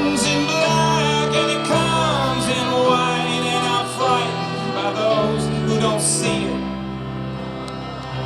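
Live band music: a male voice singing over acoustic guitar and bass. The singing drops out about six seconds in and the instruments play on.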